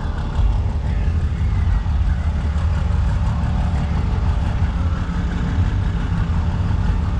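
A vehicle engine running steadily, a deep low rumble.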